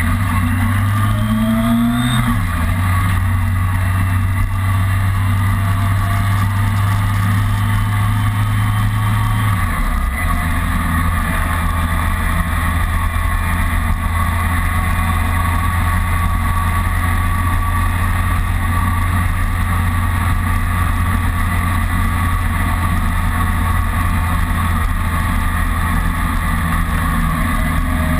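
Kawasaki ZRX inline-four motorcycle engine running under way, heard from on the bike with wind rush. The engine note rises for the first two seconds, drops sharply about two seconds in, drops again near ten seconds, then holds steady at a cruise.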